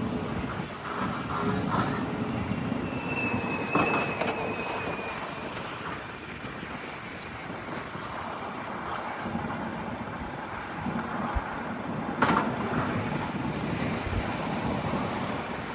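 Kubota KX033-4 mini excavator's diesel engine running steadily. A brief high whine comes a few seconds in, and sharp metallic clanks sound about 4 and 12 seconds in.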